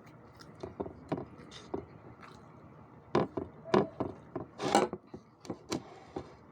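Close-up eating sounds: irregular clicks, smacks and scrapes, the loudest bunched a little past the middle, with one longer scrape.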